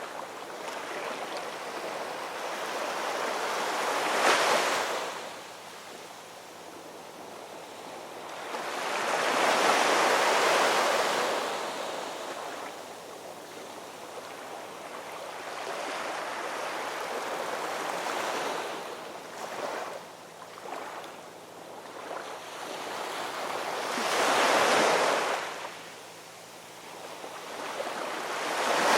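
Ocean waves breaking and washing on a shore, rising and falling in swells about every six seconds, with the loudest surges about four, ten and twenty-five seconds in.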